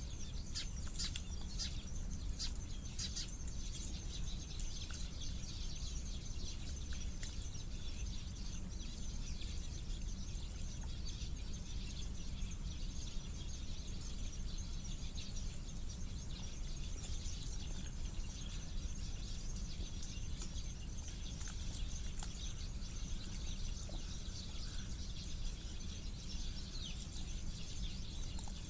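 Small birds chirping, busiest in the first few seconds, over a steady low background rumble.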